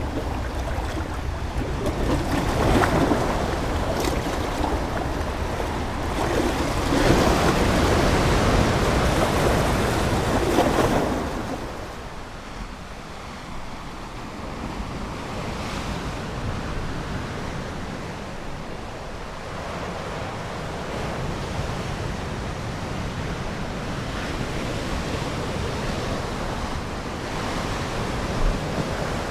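Ocean waves washing onto a shore: two louder surges in the first half, then a softer steady wash.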